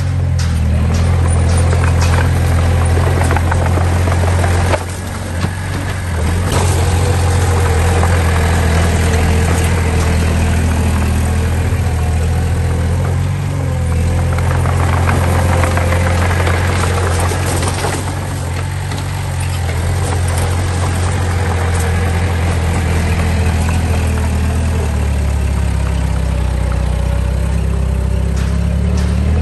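Diesel engine of heavy earthmoving machinery running steadily, with scattered metallic clatter throughout and a short dip in level about five seconds in.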